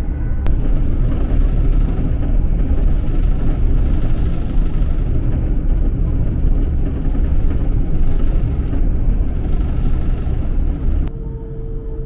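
Electric passenger train running at speed, heard from inside the carriage: a steady low rumble of wheels on the track. It drops sharply in level about eleven seconds in, and a faint steady tone comes in over it.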